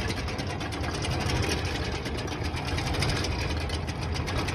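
Tractor engine running steadily with a fast, even clatter, throttled down but not yet shut off.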